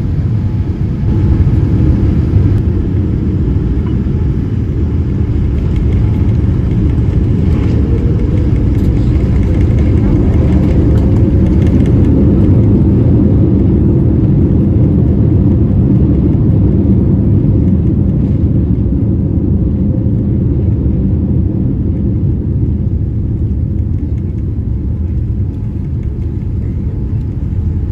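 Cabin noise of a Boeing 787-9 airliner during landing: a loud low rumble that swells around the middle and eases off toward the end.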